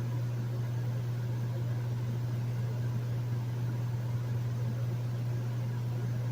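Hotel room air conditioner running steadily: a constant low hum with an even hiss of moving air over it.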